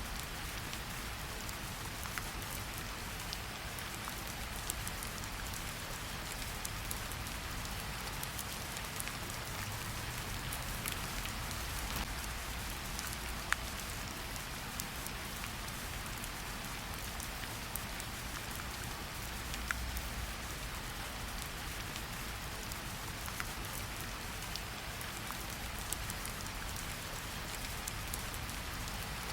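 Steady rain falling in a forest, a continuous hiss with many scattered individual drop ticks and a few louder drips.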